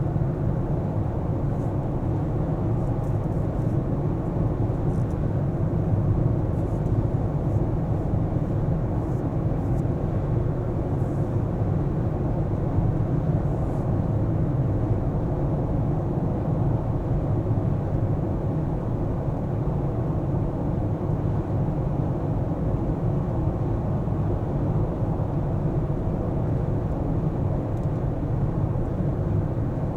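A car driving through city streets: a steady low rumble of engine and tyre road noise. A few faint high ticks come in the first half.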